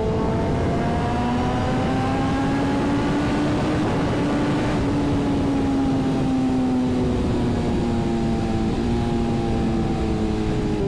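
Sport-bike engine, a BMW S1000RR, running at a steady freeway cruise, its pitch drifting slowly up and down, under constant wind rush on the microphone.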